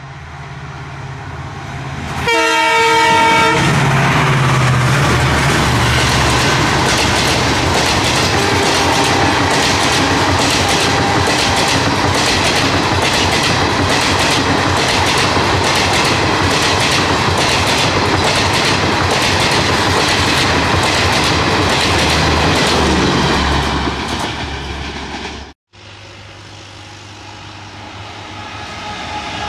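A locomotive horn blows one chord for about a second, then an Indian Railways passenger train passes at speed close by: loud rushing with the steady clickety-clack of wheels over rail joints, fading away after about twenty seconds. Near the end another train is heard approaching, growing louder.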